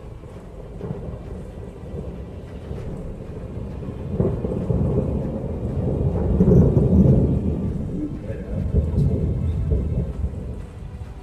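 Long rolling thunder that builds over several seconds to a peak in the middle and then slowly dies away, with rain falling steadily underneath.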